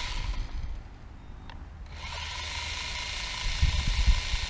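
DM009 toy quadcopter's geared brushed motors spinning with a gear whir and rattle. The whir dips about a second in and picks up again near two seconds. Hair and debris caught in the motor gears had just stopped one motor from spinning. A few low wind thumps come near the end.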